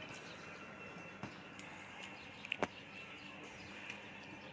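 Faint chewing and a few small mouth clicks over quiet room noise, with one sharper click about two and a half seconds in.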